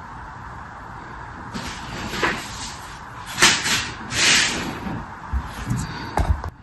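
Crisp crunching and crackling of a material being crushed by hand, in several bursts with sharp clicks, over a steady hiss; it cuts off abruptly near the end.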